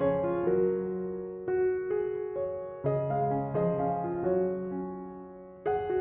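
Background piano music: gentle notes and chords struck one after another, each fading away, with a fresh chord near the end.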